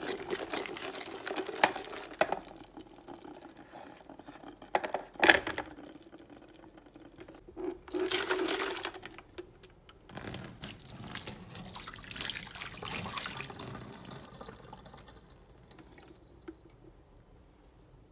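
Water running and splashing in a sink in several separate spells, with a few sharp knocks of handling; the loudest knock comes about five seconds in, and the sounds fade away near the end.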